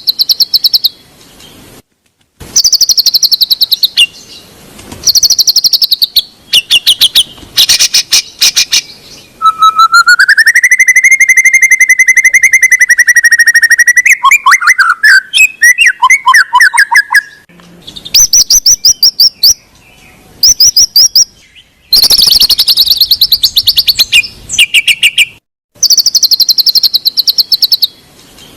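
White-rumped shama (murai batu) singing loud phrases: fast rattling series of high notes broken by short pauses. About ten seconds in comes a long clear whistle that rises and then holds for several seconds before breaking into quick warbling notes.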